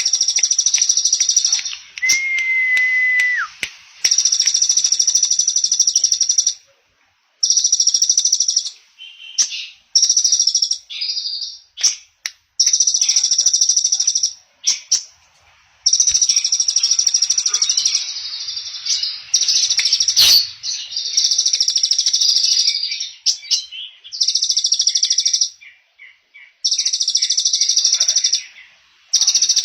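Small songbird singing long, very rapid high trills, the 'trotol' style used as masteran for magpie robins, in bursts of one to three seconds with short breaks. One brief, steady, lower whistle comes about two seconds in.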